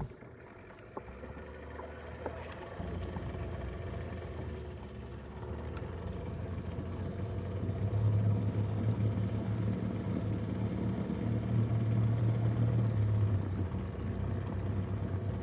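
Motorboat engine running with a steady low hum, growing louder about halfway through.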